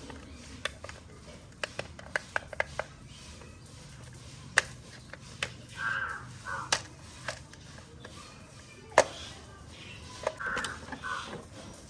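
Crows cawing in short bursts of calls, about six seconds in and again near ten and a half seconds, over a scatter of sharp clicks and taps.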